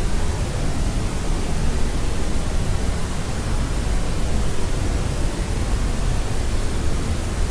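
Steady, unbroken noise for sleep, a deep even hiss heavier in the bass than in the treble, like pink noise.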